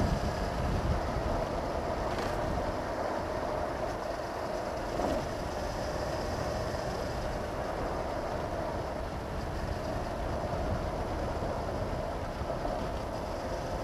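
Honda CB500X parallel-twin engine running at a steady cruise, with low wind buffeting on a helmet-mounted microphone that is strongest at the start.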